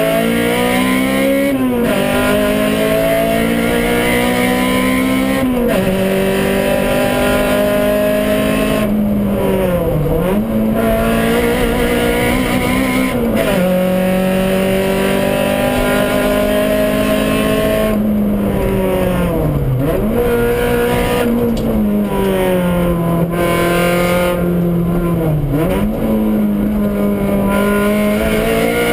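Honda Civic rally car's four-cylinder engine heard from inside the cabin, running hard at speed. Its pitch climbs steadily and then drops sharply about six times as the driver works through the gears and lifts off the throttle.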